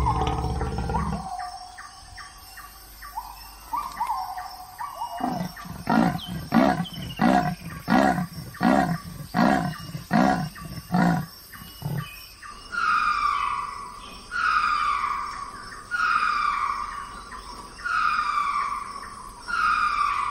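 Wild animal calls. A deep roar dies away about a second in, followed by a run of short calls about two a second. Near the middle this gives way to a bird's falling whistled call, repeated about every second and a half.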